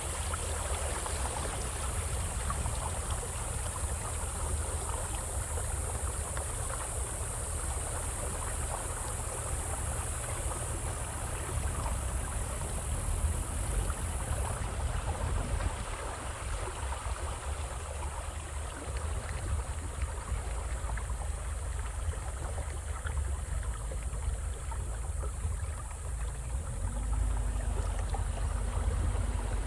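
Flowing river water with a low rumble underneath, and a steady high hiss that cuts off about halfway through.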